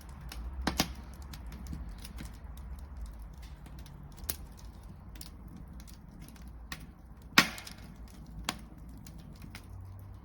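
Wood fire crackling with scattered sharp pops over a low steady rumble. The loudest pop comes about seven seconds in.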